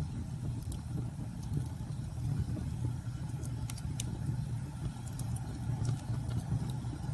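Fireplace crackling over a steady low rumble of storm wind, with sharp pops every second or so at irregular moments.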